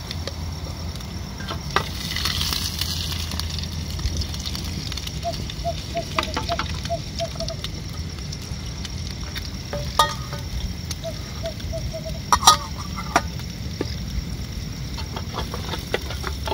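Fried rice sizzling in a small metal pan as it is stirred, a utensil knocking sharply against the pan a few times. Twice a quick run of short pulsing calls sounds in the background.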